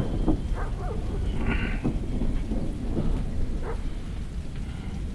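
Thunder rumbling from a nearby thunderstorm, slowly dying away.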